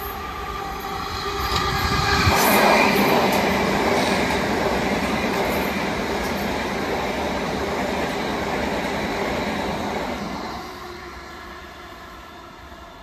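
South Western Railway electric multiple unit running through the station without stopping. The noise of its wheels on the rails builds to a peak about two to three seconds in, holds loud for several seconds while the carriages pass, then fades from about ten seconds as it recedes. A few steady tones are heard under it at the start.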